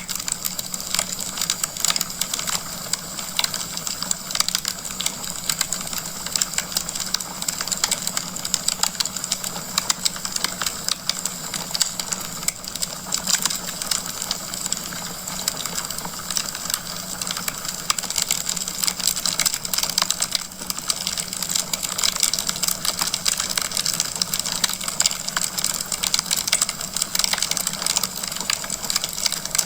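Wood fire crackling in a fireplace: a dense, unbroken run of small irregular pops and snaps.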